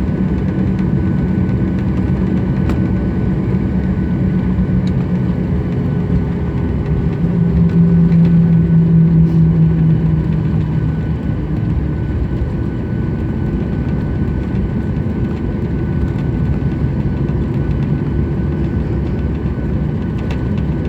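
Airliner's engines heard from inside the passenger cabin as the plane accelerates on the ground, a steady drone. A low hum swells louder about seven seconds in and eases back after about four seconds.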